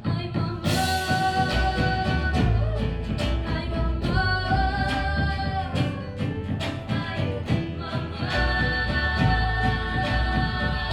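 A band playing a song: a woman sings long held notes over acoustic guitar, double bass, banjo and percussion, with steady plucked and struck beats underneath.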